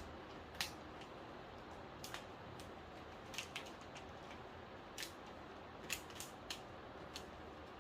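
Faint, irregular light clicks and taps, a dozen or so, of small TV parts being handled and fitted during reassembly.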